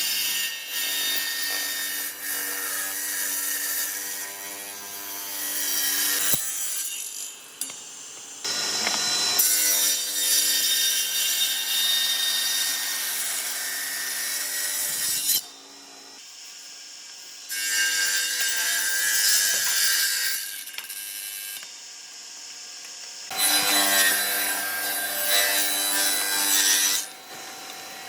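Electric power tool working wood in four long passes of several seconds each, its motor hum steady under the noise of the cut, with quieter gaps between the passes.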